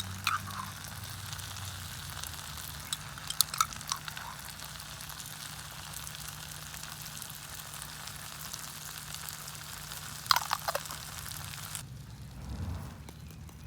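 Food frying and sizzling, a steady hiss broken by a few sharp pops and spits. The sizzle cuts off suddenly about twelve seconds in.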